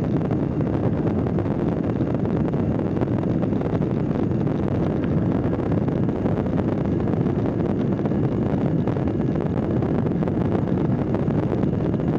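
Light aircraft engine running steadily at cruise power, heard in the cockpit with wind noise over it.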